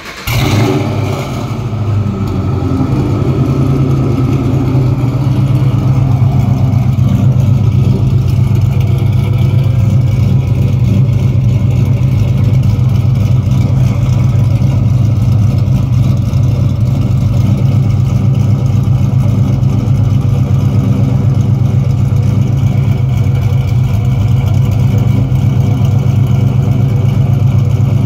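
Cammed Ford 4.6-litre V8 in a Mustang, heard at the exhaust tip. It catches right at the start and settles within a couple of seconds into a loud, steady idle.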